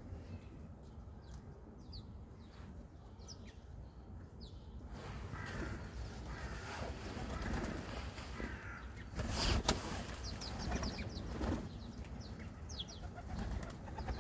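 City birds: short high chirps from small birds, with pigeons flapping their wings and a sharp wing clap about nine and a half seconds in, over a steady low city rumble.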